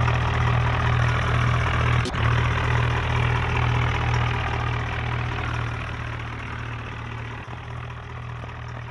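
Tractor engine running steadily with a deep, even drone, growing fainter over the last few seconds. A single sharp click about two seconds in.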